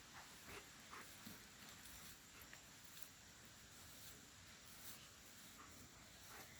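Faint, scattered short bird chirps, about half a dozen spread across a few seconds, over a quiet steady hiss.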